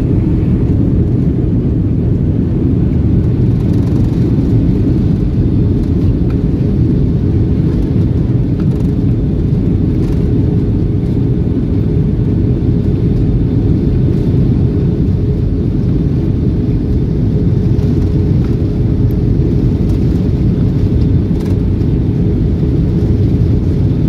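Boeing 757 jet engines running as a steady, muffled low rumble with a faint steady hum.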